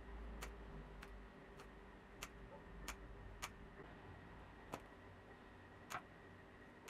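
Faint, sharp clicks, about eight of them at uneven gaps of roughly a second, over a low steady hum.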